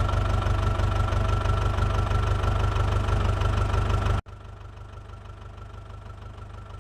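Massey Ferguson 9500 tractor's diesel engine running steadily with an even low hum. About four seconds in the sound cuts off abruptly and resumes much quieter.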